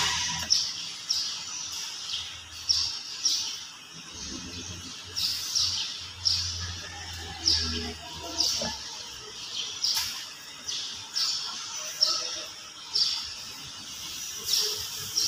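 A small bird chirping over and over: short, high, falling chirps about every half second to a second, with one sharp click about ten seconds in.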